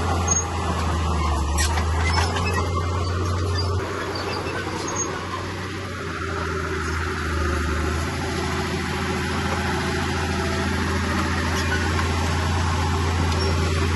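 Heavy diesel earthmoving machinery running with a steady low engine drone.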